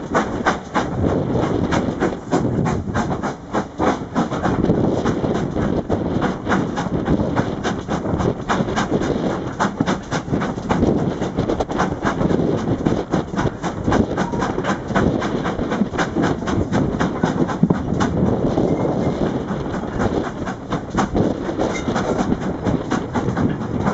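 Steam-hauled heritage train heard from a coach window while running: steady rumble of the carriages on the track, with many sharp clicks of the wheels passing over rail joints and pointwork.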